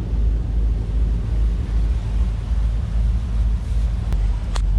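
Boat under way: a steady low rumble of the engine and water, with wind buffeting the microphone. Two short clicks near the end.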